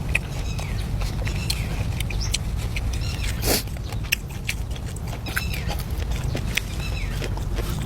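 Red-wattled lapwing calling again and again: short, sharp, hooked calls about once a second, over a steady low rumble.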